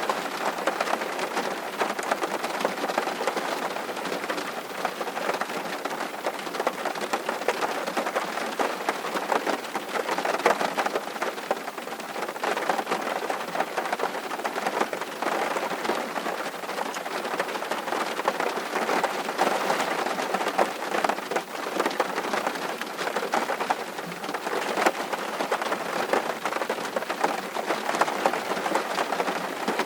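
Steady rainfall: a dense, even patter of raindrops.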